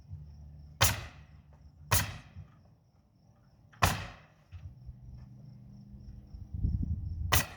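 Pneumatic nail gun firing four times at uneven intervals while siding is fastened, each shot a sharp crack with a short ring. A steady low hum runs underneath.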